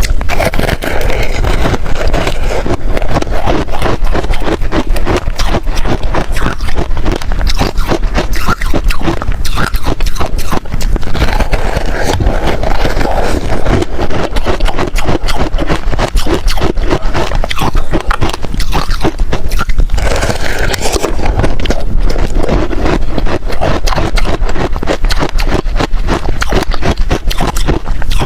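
Close-miked crunching and chewing of freezer frost, a dense, continuous run of crisp crackling crunches.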